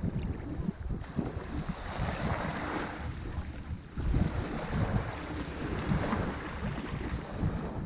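Ocean surf breaking on a shore, its rushing wash swelling and fading twice, with wind buffeting the microphone.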